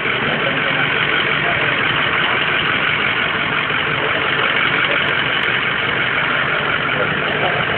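Emergency service rescue truck's engine idling steadily, a constant loud running noise with no change in speed.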